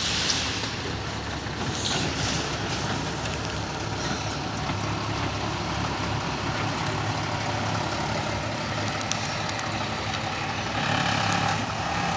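Heavy vehicle engine running steadily, with short hisses of air about the start and two seconds in.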